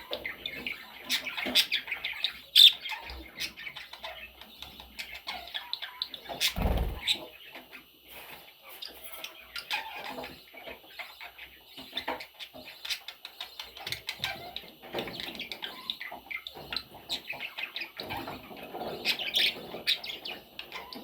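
Pet budgies chirping and chattering in short, busy calls with scattered clicks and wing flutters. There is a dull thump about six and a half seconds in.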